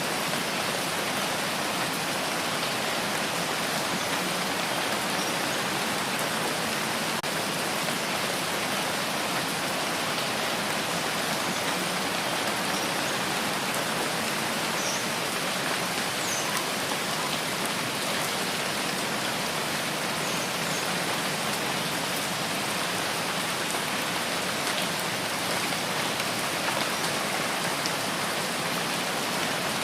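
Steady rain falling: a dense, even hiss of rain with a few faint drop ticks.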